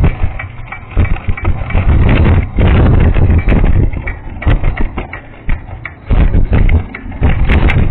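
Vehicle running with a punctured tyre, giving irregular loud low rumbling and knocking.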